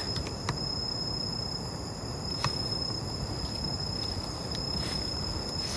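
Night insects, crickets, calling in a continuous high-pitched drone, over a low background hiss, with a few faint clicks.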